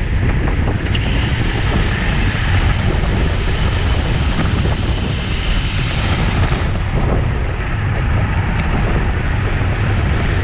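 Wind buffeting a racing cyclist's camera microphone at race speed, a loud steady low rumble with a few faint ticks.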